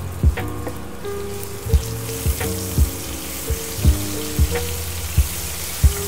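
Ginger-garlic paste sizzling as it fries in hot oil in a non-stick pan, the sizzle growing stronger about a second and a half in. Background music with a steady beat plays over it.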